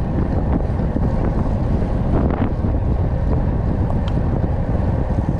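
Steady, loud wind rumble buffeting the microphone, heaviest in the low end, with a few faint clicks.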